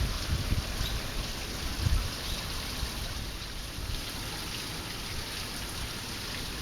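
Steady, even rush of running water, with a few low buffets of wind on the microphone in the first two seconds.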